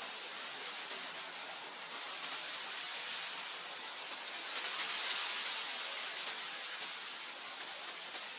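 Wind blowing over grassland: a steady hiss that swells in a gust about five seconds in and then eases back.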